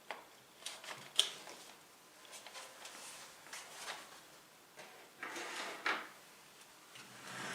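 Handling noise from working on a desktop PC: scattered light clicks and knocks, with a couple of longer rustling scrapes about five to six seconds in, as hardware and a cardboard accessory box are moved about.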